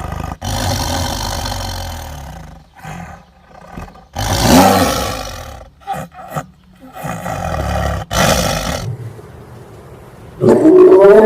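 Big cat roaring and growling in three rough, noisy bursts of a second or two each, followed near the end by a louder call with a clear pitch that falls away.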